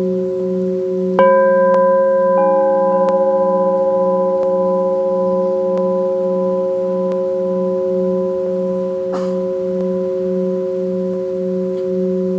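Several crystal singing bowls ringing together in long, steady tones. One bowl is struck about a second in and another about two seconds in, each adding higher notes, while the lowest tone pulses with a slow, even wobble.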